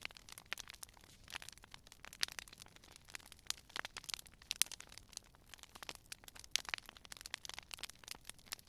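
Wood campfire crackling: a steady run of irregular sharp pops and snaps from the burning wood, over a faint hiss.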